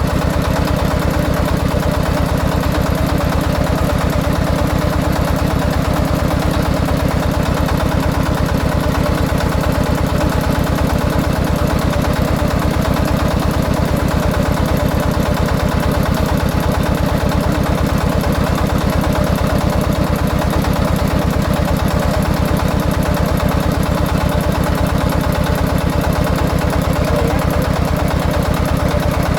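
Single-cylinder diesel engine of a công nông farm vehicle running steadily: an even, rapid chugging that holds one speed throughout.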